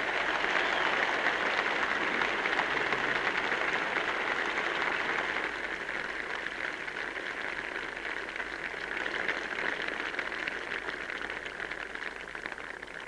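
Large crowd applauding, starting loud and slowly dying away toward the end.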